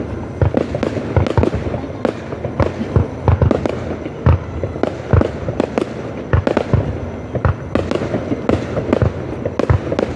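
Aerial fireworks display bursting continuously: a rapid, irregular string of sharp bangs and deep booms, several a second, over a constant crackling rumble.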